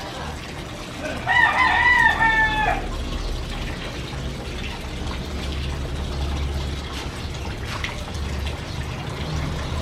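A rooster crows once, about a second in, a single call lasting about a second and a half.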